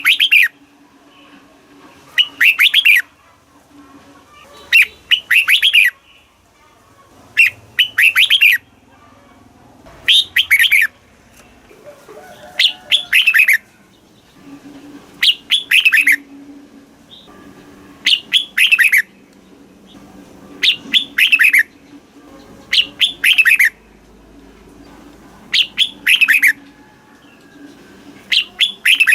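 Red-whiskered bulbul singing: short, loud phrases of several quick down-slurred notes, repeated about every two and a half seconds, a dozen times over.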